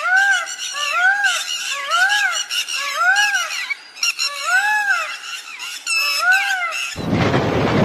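An animal's whining calls, each rising and falling in pitch, repeated about once a second with busier higher calls behind. A little before the end it cuts suddenly to a loud rushing noise.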